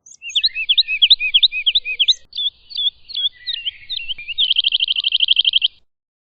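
Woodlark singing one phrase: a run of quick, slurred whistled notes, then about four seconds in a fast, even trill of a dozen or more notes a second that stops abruptly.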